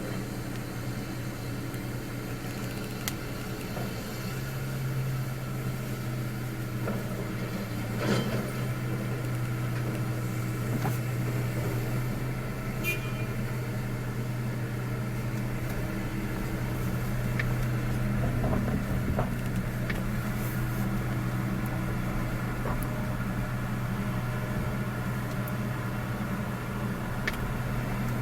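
A motor vehicle's engine running steadily with a low hum that grows stronger about four seconds in, with a few faint clicks.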